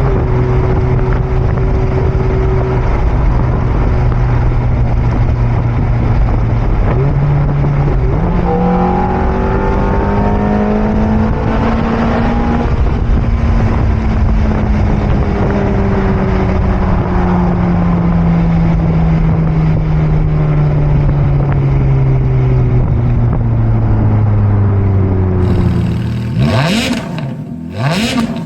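Ferrari F430 Spider's V8 running through its stock exhaust: the note climbs for a few seconds, then sinks slowly and steadily for a long stretch as revs fall away. Near the end come two quick revs, each rising sharply and dropping back.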